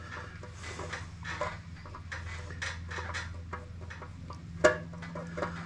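Light clinks and clicks of metal parts and tools being handled, with one sharper metallic knock near the end, over a steady low hum.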